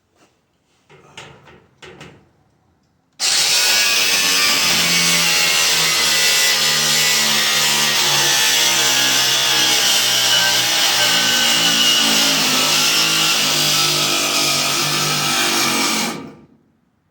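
A few light knocks, then a cordless power saw starts abruptly about three seconds in and runs steadily for about thirteen seconds, its blade cutting through the steel bolts that hold a control panel, before stopping.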